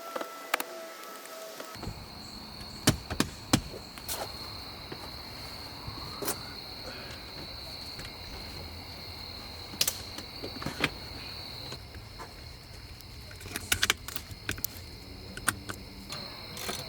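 Scattered sharp clicks and knocks of hands-on work, over a steady high chirring of crickets and a low hum. A short bit of music plays in the first couple of seconds, then cuts off.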